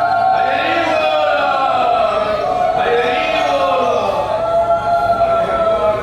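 A group of devotees chanting in unison, long held notes that drift slowly in pitch.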